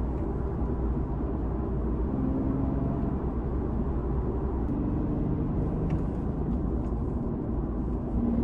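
Nissan Fairlady Z (Z34)'s 3.7-litre V6 running steadily through an aftermarket HKS exhaust, a deep low rumble with no clear revving.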